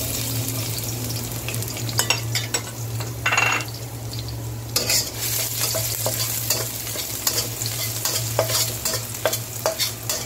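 Chopped garlic and ginger sizzling in hot oil in a wok, stirred with a metal spatula that scrapes and clicks against the pan. The sizzle grows louder about five seconds in, over a steady low hum.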